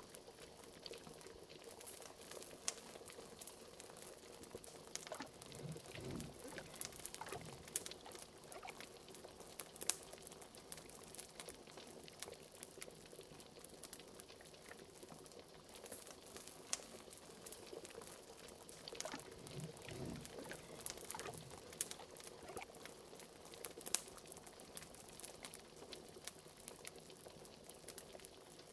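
Liquid bubbling at a boil, with a few deeper bubbles bursting about six seconds in and again near twenty seconds, over a steady scatter of small sharp crackles of a fire.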